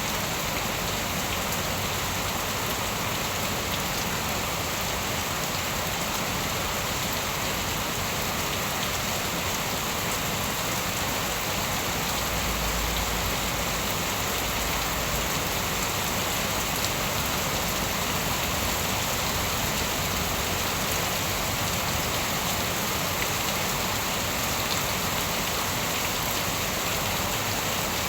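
Steady heavy rain falling, an even, unbroken hiss of drops on surfaces.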